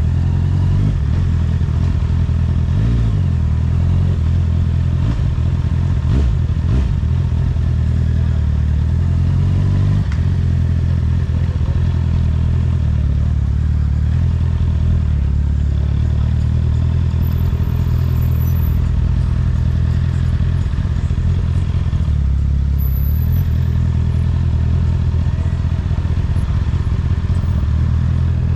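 Honda CBR650R inline-four motorcycle engine running through an Akrapovic exhaust while riding. The engine note shifts a little several times in the first ten seconds, then holds steady at cruise.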